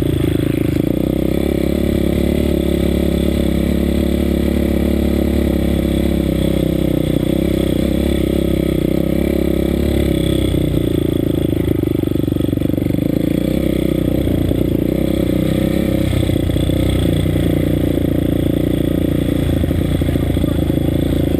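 Pitbike's 190 cc Daytona single-cylinder engine running hard under throttle, heard from on board, its pitch dipping and climbing a little as the rider shifts and brakes.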